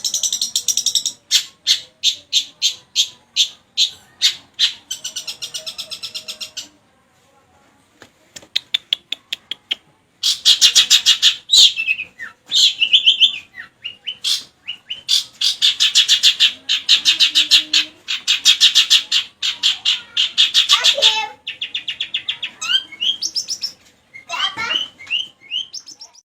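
Long-tailed shrike (cendet) singing loudly, mimicking a lovebird: fast series of sharp high chattering notes and long buzzy trills, with a short pause about seven seconds in, then a few swooping whistled notes near the end.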